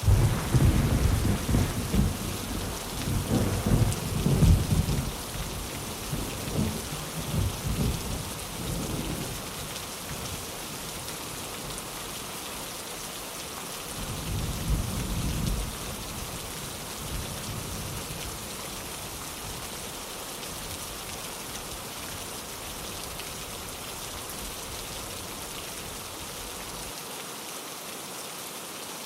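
Steady heavy rain, with a long rolling rumble of thunder that starts suddenly at the beginning and dies away over about ten seconds. A second, shorter rumble comes about halfway through, then only the rain remains.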